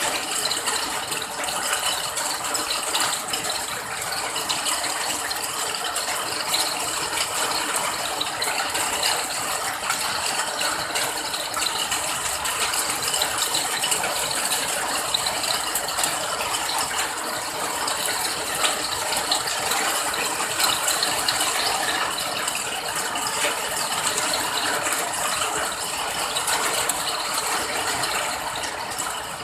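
Steady rain: a dense, even patter of countless small drop ticks that holds level without letting up.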